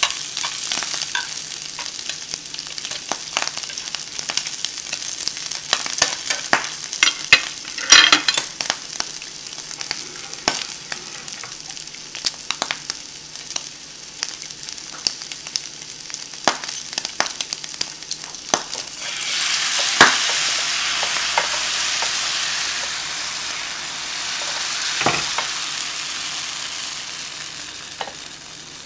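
Shrimp, pork belly and onion sizzling in oil in a nonstick skillet, with sharp clicks of wooden chopsticks against the pan as they are stirred. About two-thirds of the way in, a louder, fuller sizzle starts as crepe batter goes into the hot pan, then fades near the end.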